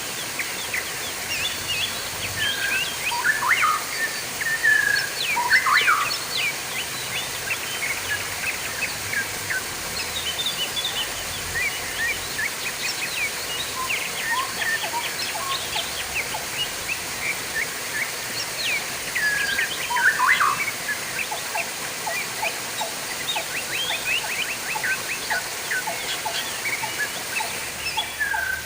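Many small birds chirping and twittering in quick, busy bursts over a steady hiss of running, trickling water.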